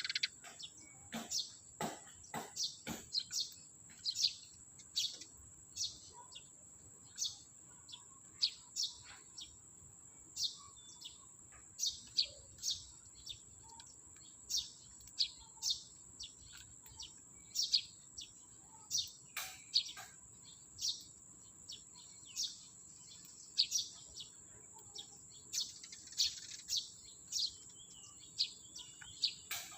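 Sparrows chirping repeatedly: short, sharp, falling chirps about one or two a second, over a steady high-pitched whine. A few sharp clicks come in the first three seconds.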